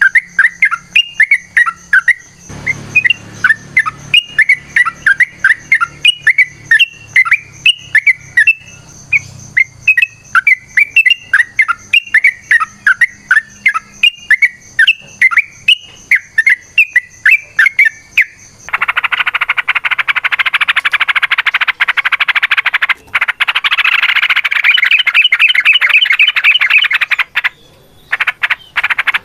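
Yellow-vented bulbul (trucukan) singing: a long run of quick, bubbly chirping phrases. About two-thirds of the way in it switches to a loud, dense, unbroken rapid chatter, the long 'ropel' song, which breaks off shortly before the end.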